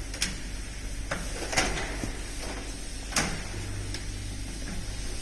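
Scattered metallic clinks and knocks of tools and parts being handled during an engine teardown, about four sharp ones over a steady low hum.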